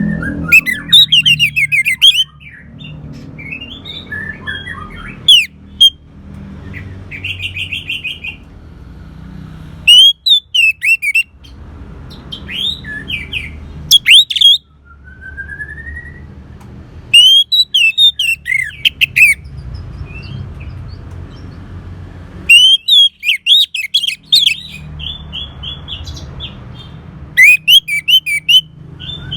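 Orange-headed thrush singing: loud phrases of rapid, varied, slurred whistles and chips that break off and start again every few seconds, over a low steady hum.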